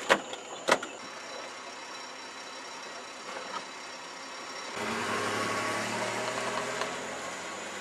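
Two sharp cracks about half a second apart near the start, taken as gunshots, then the low steady hum of a car with its engine running. About five seconds in, the sound turns louder and fuller, with a steady low engine drone.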